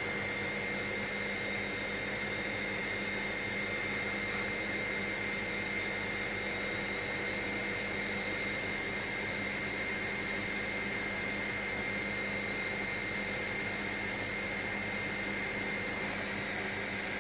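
Helicopter in cruise flight heard from inside the cabin: a steady engine and rotor drone with a constant high whine running through it.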